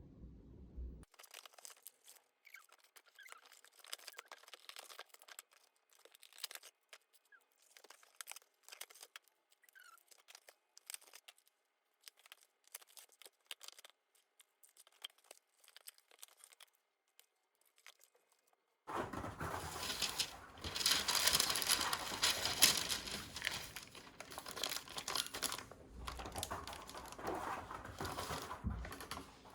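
Plastic food packaging crinkling and tearing as it is opened: scattered soft crinkles and clicks, then from about two-thirds in a louder, denser crinkling and rustling.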